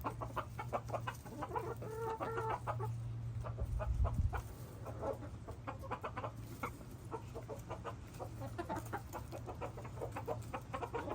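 A flock of backyard chickens clucking as they eat and squabble over treats, with many short calls and a longer drawn-out call about two seconds in. A steady low hum runs underneath, with a brief low rumble about four seconds in.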